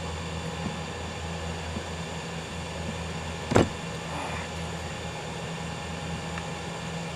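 A steady low hum from running machinery, with one sharp knock about three and a half seconds in.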